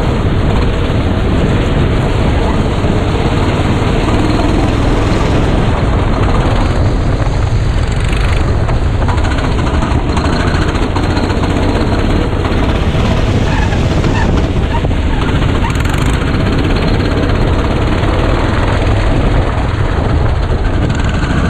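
Go-kart engine running, recorded onboard by a GoPro, heard as a loud, steady, dense rumble with no clear pitch.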